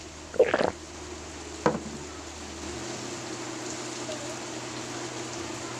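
Steady background hiss with a faint hum, broken early by a short vocal sound about half a second in and a single click a little later.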